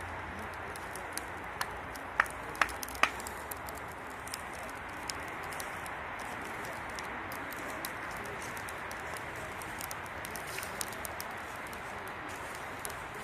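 Wood campfire burning: a steady hiss with scattered crackles and sharp pops, three loud snaps in quick succession a couple of seconds in.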